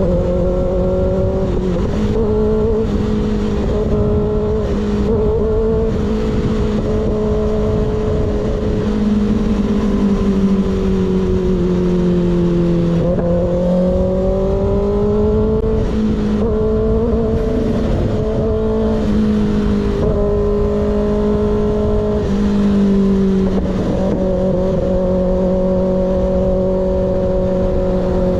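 Sport motorcycle with an unbaffled M4 slip-on exhaust running at steady cruising revs, the pitch easing down and climbing again about halfway through, with wind rush underneath.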